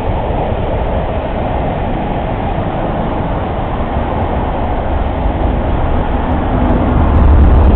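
A diesel-hauled passenger train passing close below: the coaches' wheels run steadily over the rails. The low rumble of the rear diesel locomotive's engine builds and grows louder near the end.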